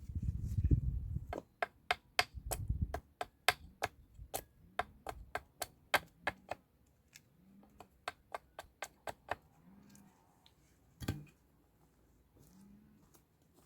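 A run of sharp knocks, two or three a second, thinning out and spacing apart after about seven seconds, with a low rumble under the first few seconds.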